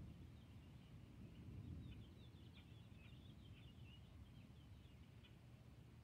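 A bird singing faintly: a rapid, jumbled run of short high chirps starting about two seconds in and lasting about three seconds, over a low steady rumble.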